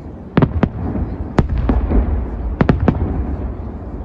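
Fireworks display: sharp shell bursts, two about half a second in, a loud one near a second and a half, and a quick run of three near three seconds, over a steady low rumble of further bursts.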